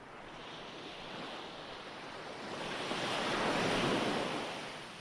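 Ocean waves on a shore: a steady hiss of surf that swells as a wave comes in, loudest about three and a half seconds in, then draws back.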